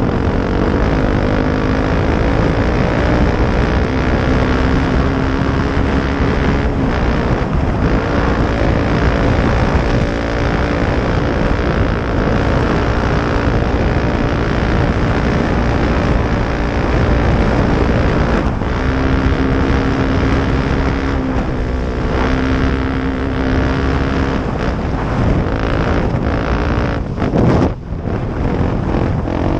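Off-road motorcycle engine running under way, its pitch stepping up and down with throttle and gear changes, with wind rumbling on the microphone; near the end the sound briefly drops and sweeps.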